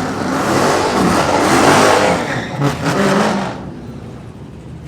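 A car engine accelerating hard, loud with a rising and falling pitch, then dropping away about three and a half seconds in.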